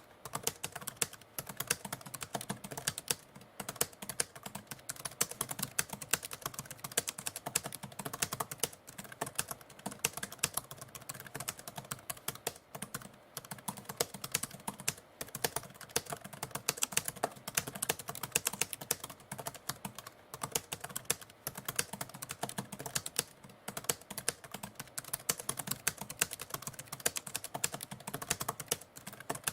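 Mechanical typewriter being typed on steadily: a fast, irregular run of key strikes, several a second, with a few brief pauses.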